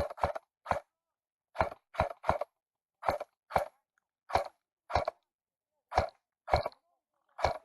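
Footsteps crunching on dry, gravelly ground: about a dozen single steps at an uneven pace, roughly one every half second to a second.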